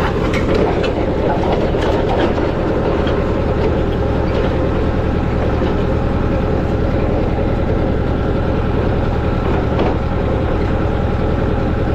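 Allis-Chalmers tractor engine running steadily, driving a post hole digger auger boring into gravelly ground, with a few light knocks in the first couple of seconds.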